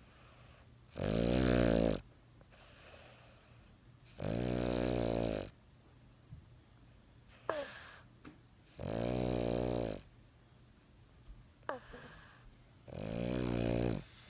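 Boston terrier snoring loudly in its sleep: four long snores about four seconds apart, with softer breathing between them and a short falling squeak twice.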